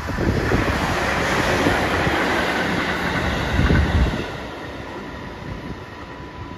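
Electric commuter train passing close on elevated track, its wheels rumbling and clattering over the rails. The noise is loudest about four seconds in, then drops away to a lower rumble.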